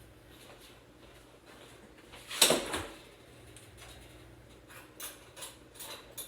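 Spoon and soup bowl being handled: one loud knock about two and a half seconds in, then a few light clicks near the end.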